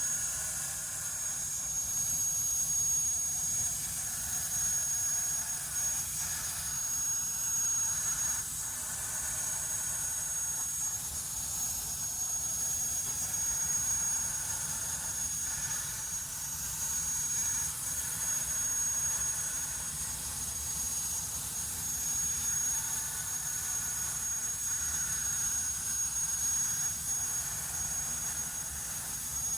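CNC plasma torch cutting steel plate: a steady rushing hiss with a thin, steady high-pitched whine over it.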